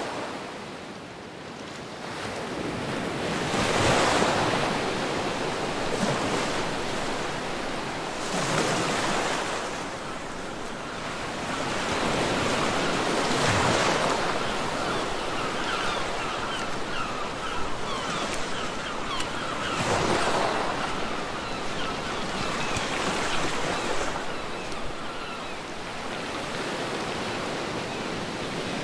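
Ocean waves breaking and washing on a beach, with a wash of wind. Each wave swells up and falls back, about every four to six seconds.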